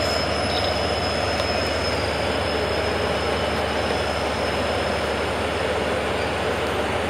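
DF200 diesel-electric locomotive running steadily as the train backs slowly along the platform, with a thin high squeal that fades over the first few seconds.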